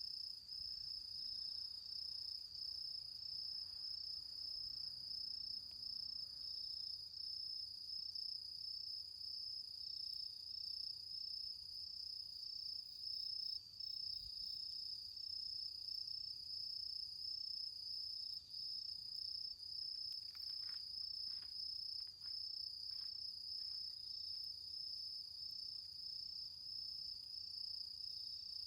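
Crickets chirping steadily in a continuous, rapidly pulsing high trill. A few faint crackles from the campfire embers come about two-thirds of the way in.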